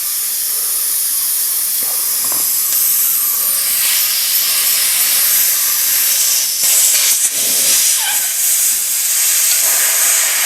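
Compressed air from an air line hissing steadily into a motocross tyre through the valve stem with the core taken out, so the tyre fills fast and the bead pushes up onto the rim.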